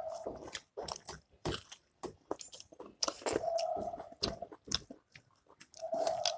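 Close-miked eating sounds from a meal of pork-fat pickle with rice and greens: chewing, lip-smacking and crunchy bites in quick irregular clicks, with three brief steady hums.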